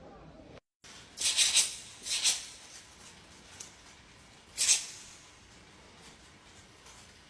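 Three short, dry rattling hisses, the first about a second in and the last near five seconds in, with a faint background between them.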